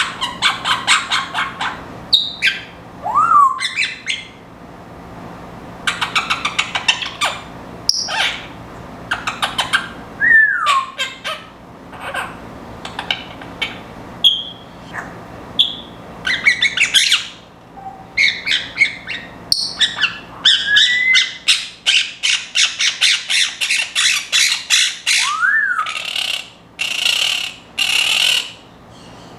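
Pet parrots, a Timneh African grey and Quaker parrots, chattering and squawking in rapid runs of short notes, with several short whistles that glide up or down in pitch.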